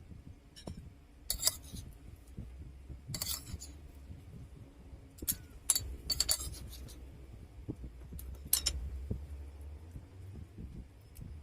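Spoon and fork clinking and scraping against a plate about six times, in short sharp strokes, over a low steady hum.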